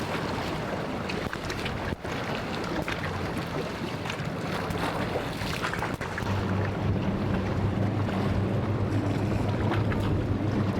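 A boat's engine runs steadily and grows louder from about halfway in, over wind on the microphone and the wash of waves.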